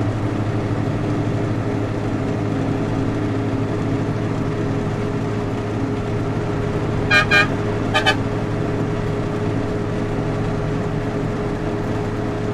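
Steady drone of a vehicle driving on the road. About seven seconds in, a vehicle horn toots four short times in two quick pairs.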